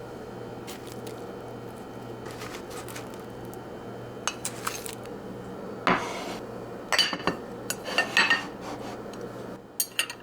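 Kitchen dishes and utensils knocking and clinking, with a sharp knock about six seconds in and a run of ringing clinks soon after, over a steady low hum.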